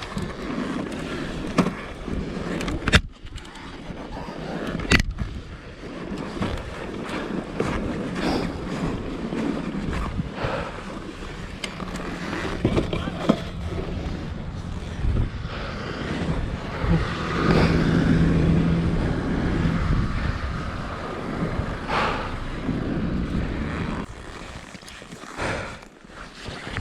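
Yamaha WR250F's single-cylinder four-stroke engine running on a dirt bike, under a steady rush of wind on the microphone, with scattered sharp knocks. The engine note is strongest a little past the middle.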